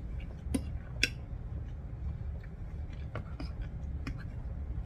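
Close-up eating sounds: chewing a mouthful of soft, gravy-soaked chicken sandwich, with scattered small clicks and taps from the mouth and a fork on a plate. The two sharpest clicks come about half a second and a second in, over a low steady hum.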